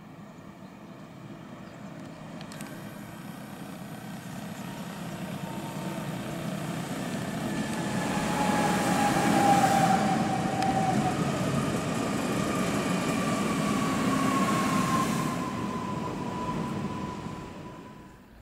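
Newag Impuls EN63A electric multiple unit passing at speed: wheel-on-rail rumble swells to a peak about halfway through and fades, with a high whine that slides down in pitch as it goes by. The sound drops off abruptly near the end.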